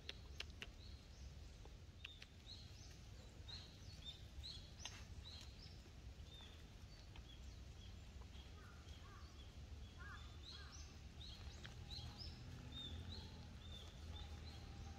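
Small birds chirping faintly and repeatedly, short high chirps all through, with a few lower calls about two-thirds of the way in. A few sharp clicks and a steady low rumble lie underneath.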